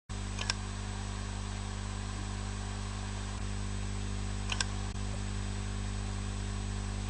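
Hard disk drive running with a steady hum, its read/write head clicking sharply twice, about four seconds apart, as it seeks. The clicks are the head jumping to remapped sectors, the sign of a drive with many bad sectors.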